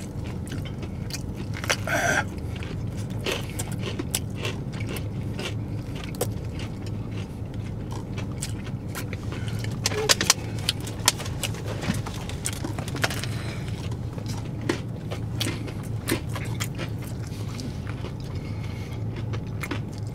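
Chewing and crunching of spicy fried-chicken sandwiches topped with crunchy Takis chips: many small irregular crunches and mouth clicks over a steady low hum, inside a car's cabin.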